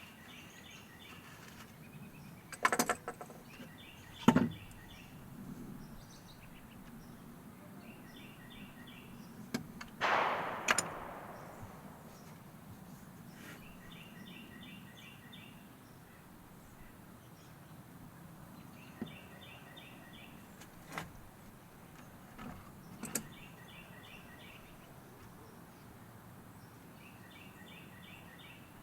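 Knocks and clatter of objects being handled and set down on a workbench: a few sharp knocks near the start, and a longer scraping clatter about ten seconds in. Behind them a bird repeats a short phrase of quick chirps every few seconds.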